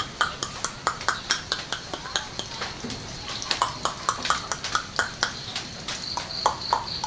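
Cucak jenggot (grey-cheeked bulbul) calling in a fast series of sharp chips, about four a second. A thin high whistle joins near the end.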